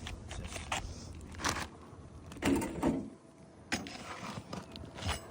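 Scrapes and knocks of a tool prying under asphalt roof shingles to unseal them, with a few louder scraping strokes in the middle.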